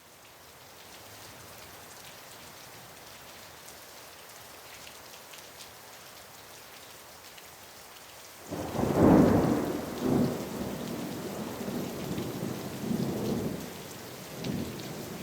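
Steady rain hiss, then about eight and a half seconds in a loud clap of thunder breaks and rolls on in several rumbling swells that slowly die away.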